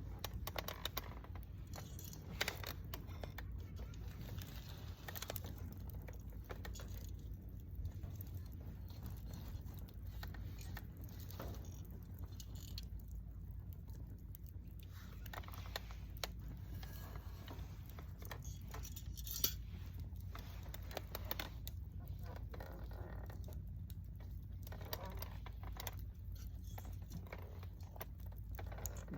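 Campfire crackling: burning wood popping in irregular sharp clicks, with a few louder pops, over a low steady rumble.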